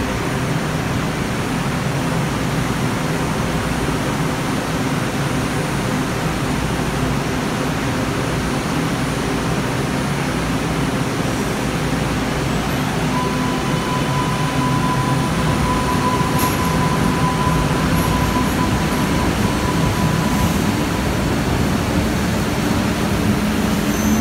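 MBTA Green Line light-rail train running along the station platform: a steady rumble of wheels and motors, with a steady high tone joining for several seconds about halfway through.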